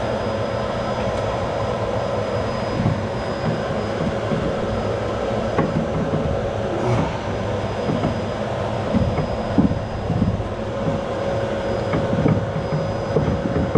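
Steady drone of a vacuum cleaner motor running, with scattered light knocks as stove parts are fitted into the firebox.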